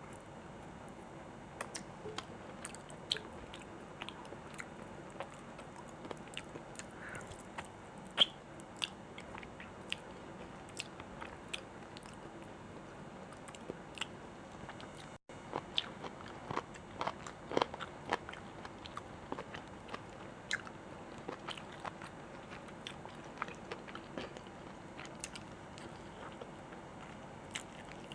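Close-miked chewing and biting of food, with many irregular sharp wet mouth clicks and occasional crunches. The sound drops out briefly about halfway through.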